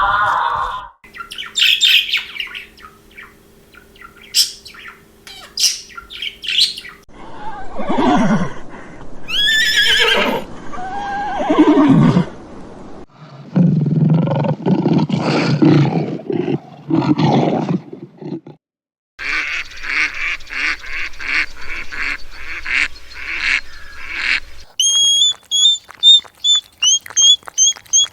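A run of different animal calls cut one after another, including short high bird chirps and, near the end, a bird's repeated whistled notes, with gliding calls and a rapid pulsing call between them.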